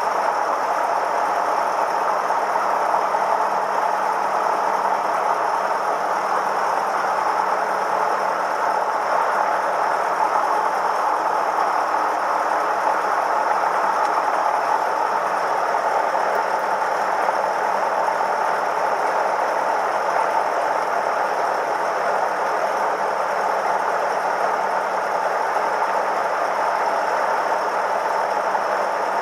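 Cessna 172M's four-cylinder Lycoming O-320 piston engine running steadily at a constant, low power setting after start-up.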